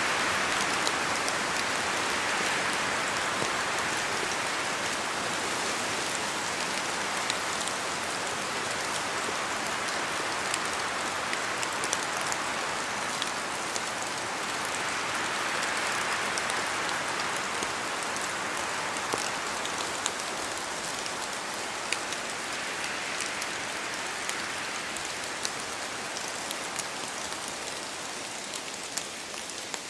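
Steady rain falling on forest foliage, swelling and easing every several seconds, with scattered individual drops ticking sharply through it.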